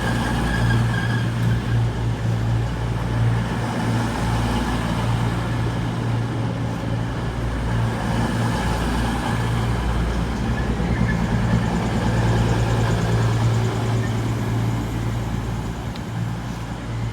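CrossCountry Class 221 Super Voyager diesel-electric multiple unit pulling slowly into a terminus platform, its underfloor diesel engines running with a steady low hum.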